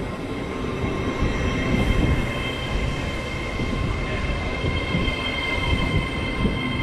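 Hull Trains Class 802 multiple unit rolling slowly into the platform as it arrives, wheels rumbling, with a steady high squeal of several tones that grows stronger about halfway through.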